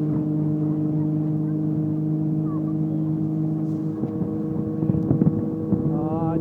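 Motorboat engine running steadily at an even pitch, with irregular knocks joining in the second half and a brief voice near the end.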